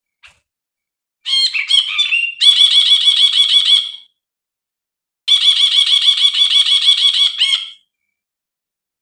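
Brinji (bulbul) song: two long bursts of rapid, evenly repeated chattering notes, each lasting about two and a half seconds. The first opens with a few separate calls, and there is a pause between the bursts.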